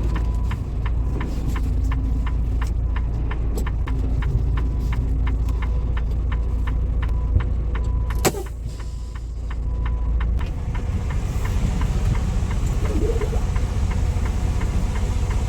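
Truck engine rumbling low and steady, with a regular ticking about twice a second that stops with a sharp clunk about eight seconds in. A couple of seconds later the rumble changes tone.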